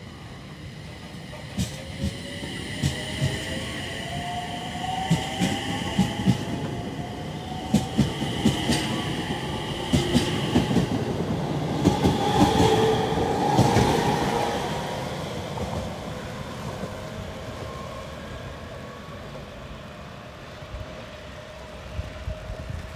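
Electric multiple-unit train pulling out, its motor whine rising in pitch as it gathers speed, with the wheels clacking over the rail joints. The sound builds to its loudest about halfway through as the train passes, then fades as it leaves.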